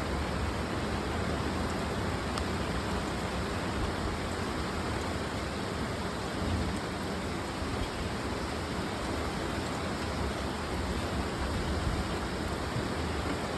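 Steady rain during a thunderstorm, an even hiss with low rumbling underneath.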